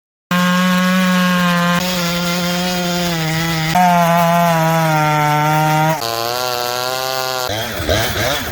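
Two-stroke chainsaws running at high revs, heard as a run of short clips that change abruptly every couple of seconds. Near the end the engine revs up and down repeatedly.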